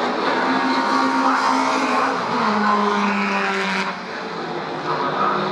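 Historic touring race cars' engines running at speed on the circuit, their pitch falling about two seconds in as they pass or lift off, and the sound dropping briefly about four seconds in.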